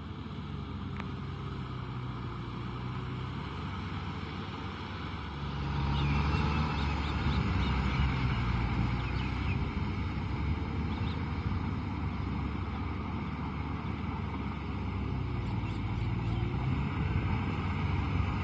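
Kubota M6040SU tractor's diesel engine running under load, getting louder about five and a half seconds in as it works through mud.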